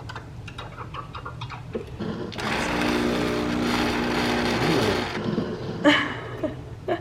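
Breville Barista Express steam wand starting up to froth milk. Quiet at first, then about two seconds in a loud steady hiss with a low hum under it for about three seconds, easing off with short squeaks near the end.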